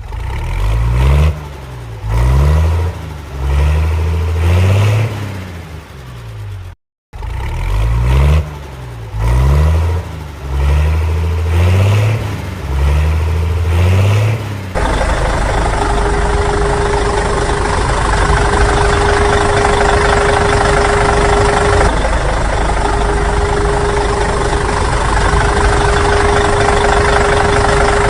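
Vehicle engine sounds: a run of short revs, each rising in pitch, repeated twice. About halfway through it switches suddenly to a steady engine run with a constant whine.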